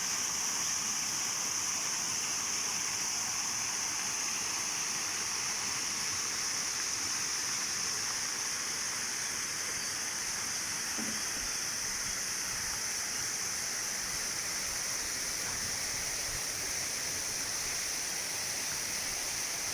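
Water pouring steadily down an artificial rock waterfall into a pond, an even rushing with a constant high hiss.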